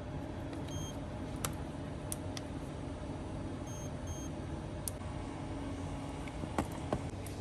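Steady low workshop hum with a few small sharp clicks, and three short, faint high electronic beeps: one about a second in and two close together around four seconds in.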